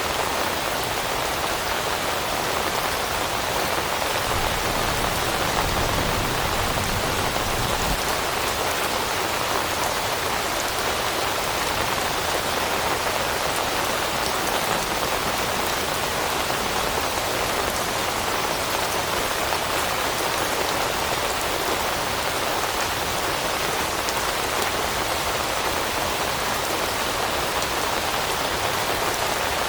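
Steady rain falling, an even hiss of raindrops pattering on leaves, with a faint low rumble swelling briefly a few seconds in.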